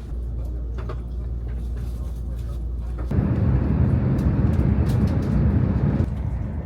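Steady low rumble of a KTX high-speed train in motion. About three seconds in, a much louder, harsher rush of running noise starts abruptly, lasts about three seconds and cuts off suddenly.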